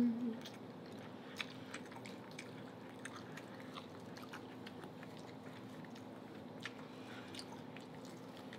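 Close-miked mouth sounds of biting kernels off corn on the cob and chewing, as scattered small wet clicks and crunches, with one sharper click about one and a half seconds in.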